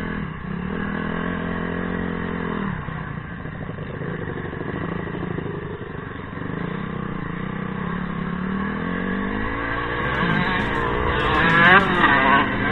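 Dirt bike engine on a motocross track, revving up and down as the throttle opens and closes. The pitch holds for the first few seconds, drops, then climbs to a loud rev near the end before falling away.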